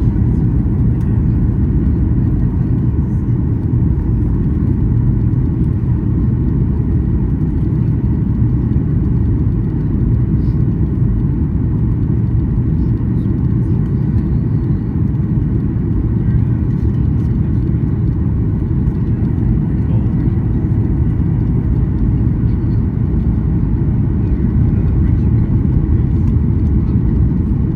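Steady low rumble of a Boeing 737-800's cabin: engine and airflow noise, unchanging throughout.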